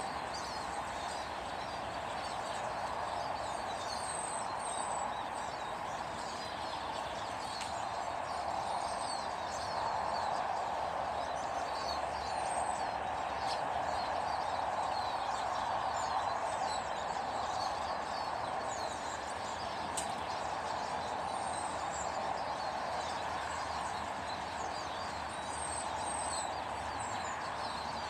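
Small birds chirping, many short high calls scattered throughout, over a steady background noise.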